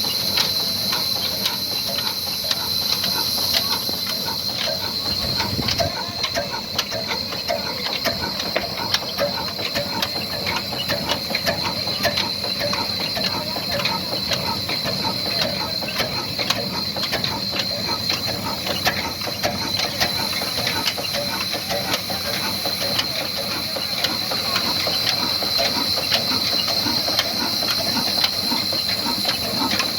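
Old 22 hp stationary diesel engine and the belt-driven wood-cutting machine it powers, running together: a steady, dense mechanical clatter with a high steady whine over it.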